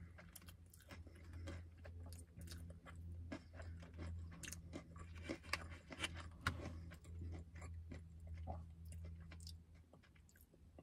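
Close-up chewing of a crispy, breaded Korean corn dog, with many small crunches and mouth clicks, over a steady low hum that stops near the end.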